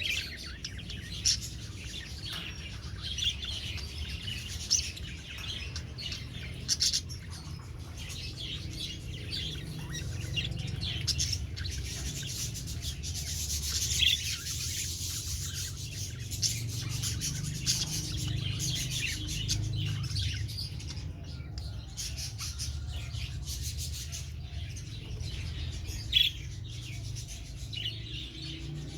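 Young budgerigars, about two months old, chirping and chattering: many short, high chirps over a steady low rumble.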